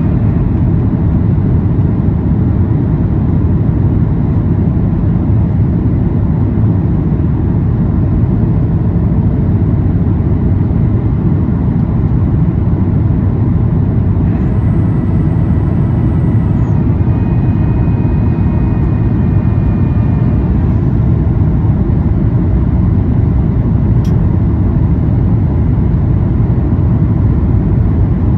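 Steady low rumble inside the cabin of a Boeing 737-800 rolling on the ground after landing: its CFM56 engines running at low power together with wheel and airframe noise. Faint high whines come in briefly in the middle, and a single click sounds near the end.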